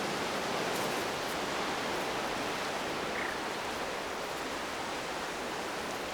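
Sea surf washing on the shore: a steady, even hiss of rushing water.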